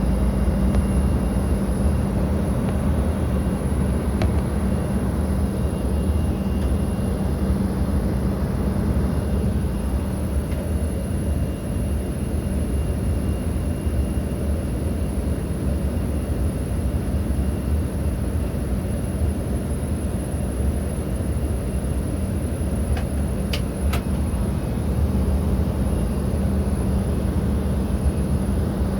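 Steady low rumble of jet aircraft around an airport, with wind buffeting the microphone. A couple of brief clicks come near the end.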